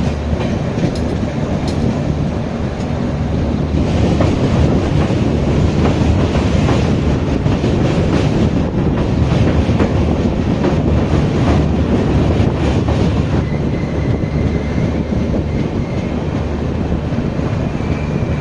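Dony Polo Express passenger train running along the track: a steady loud rumble with wheels clattering over the rails. A faint high whine joins in over the last few seconds.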